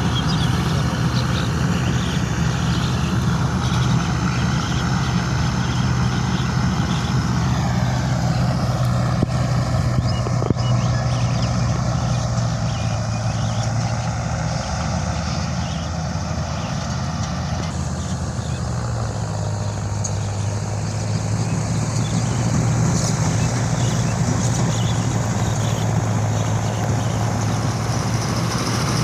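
Heavy diesel engine of paddy-harvesting machinery running steadily under load. About a quarter of the way in, a higher whine glides down, and the low engine note settles slightly lower past the middle.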